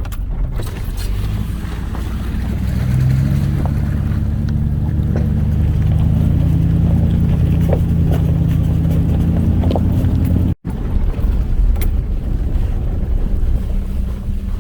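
A vehicle's engine and running noise while driving slowly on a dirt trail: a steady low hum whose note rises a little about three seconds in and then holds. About ten and a half seconds in the sound drops out for a split second and returns as a rougher rumble.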